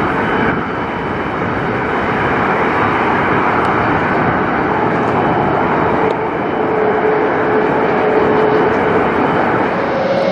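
Jet airliner taking off: steady, loud engine noise with a faint held whine through the second half.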